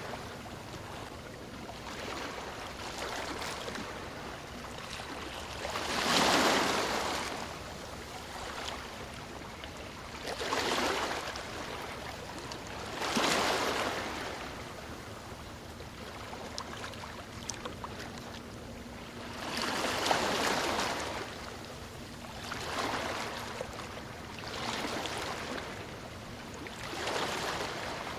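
Ocean waves breaking and washing onto the shore. Each surge of surf swells up and fades away at irregular intervals of a few seconds, with a softer, steady wash in between.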